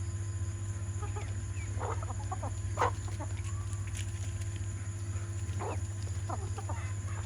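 Chickens clucking in short, scattered calls, the loudest about three seconds in, over a steady low hum.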